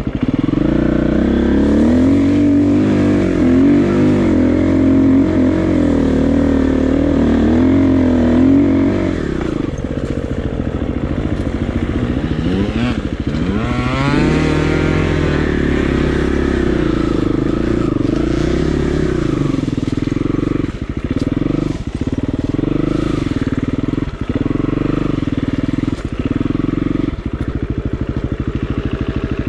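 KTM 350 EXC-F's single-cylinder four-stroke engine running as the bike is ridden, its revs rising and falling constantly. There is a quick climb in revs about halfway through, and short throttle drops in the last third.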